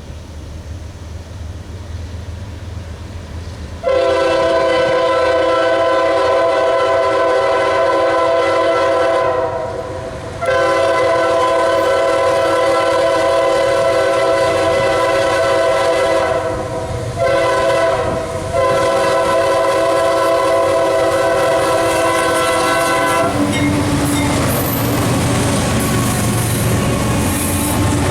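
CSX freight diesel locomotive's multi-chime air horn blowing the grade-crossing signal, long, long, short, long, after a few seconds of engine rumble as the train approaches. As the horn stops, the locomotive and cars pass close by with the diesel engine running and wheels clacking over the rail joints.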